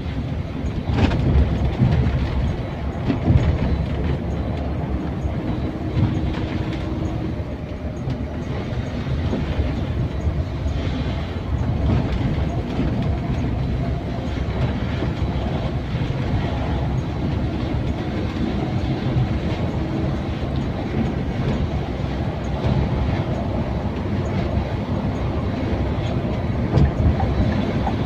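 Scania K410iB coach on the move: a steady low rumble of engine and road noise.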